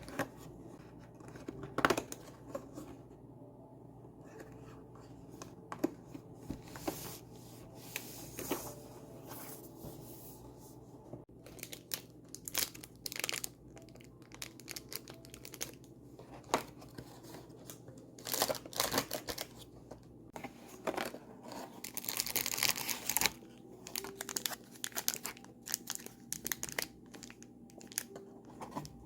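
Paper or packaging being handled: crinkling and tearing, with scattered small clicks and taps, and a longer stretch of rustling about three quarters of the way through.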